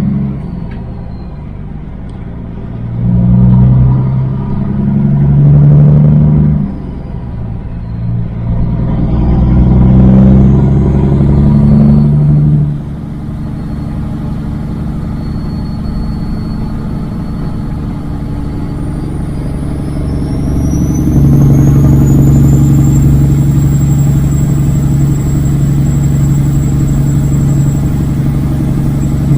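Semi-truck diesel engine pulling up through the gears: the revs climb and drop back about four times in the first half, then it settles into a steady, even run. A faint high whine rises in pitch about two-thirds of the way in.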